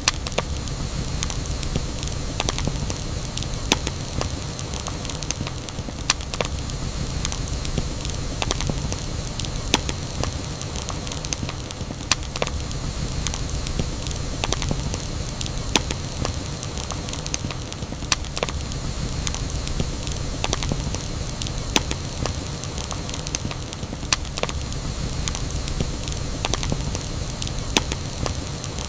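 Campfire burning: a steady low rumble with frequent sharp crackles and pops at irregular intervals.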